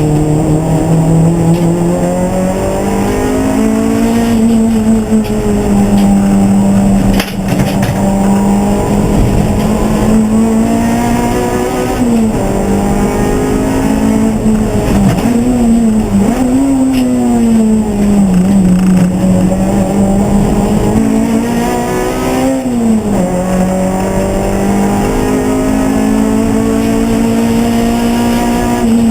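Race car engine running hard through a lap. Its pitch climbs steadily and drops sharply at each gear change, several times.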